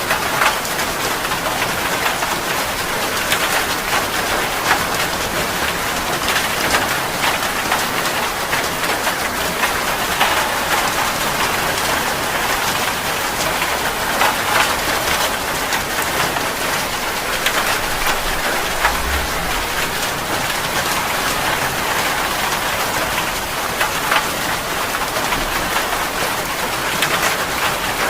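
Steady rain falling: an even hiss scattered with many small drop taps.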